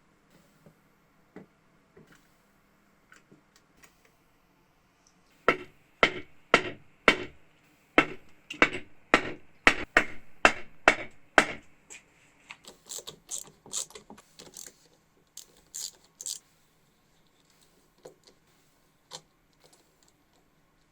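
A run of sharp knocks, about two a second for six seconds, followed by lighter, higher-pitched clicks and a few scattered taps near the end.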